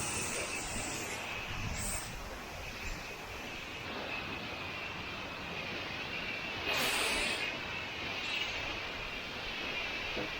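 Pressure washer running with its high-pressure water jet spraying, a steady rushing hiss with a faint high whine. A louder burst of spray comes about seven seconds in.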